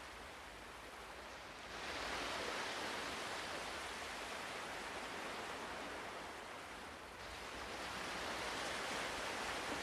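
Ocean waves washing onto a shore: a steady surf hiss that swells as a wave comes in, about two seconds in and again near the end.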